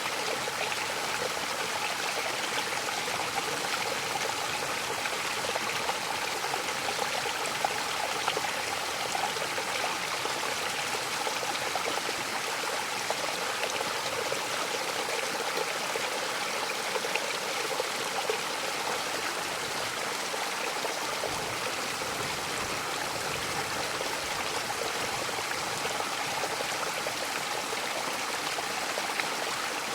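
Mountain waterfall rushing and splashing steadily, a constant hiss of falling water.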